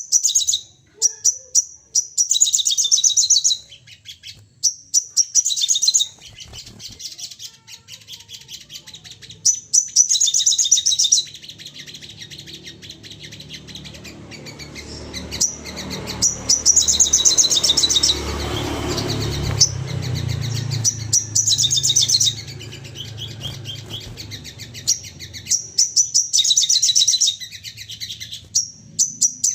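Sogon songbirds calling in rapid, chattering bursts: runs of very fast, high-pitched chirps repeated every few seconds. A low rumble lies under the calls through the middle of the passage.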